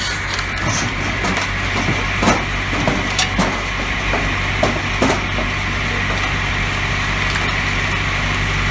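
Wood-processing machine running steadily while logs knock and crack as they are cut or split, with sharp irregular wood cracks through the first half and then steadier running.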